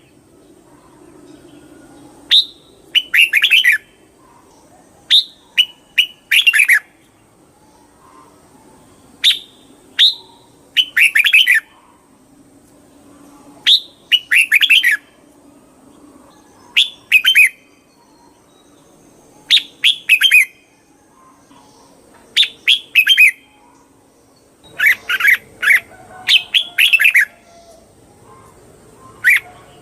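Red-whiskered bulbul singing: short, bright phrases of quick falling notes, repeated every two to three seconds, with a faint steady high whine in the background.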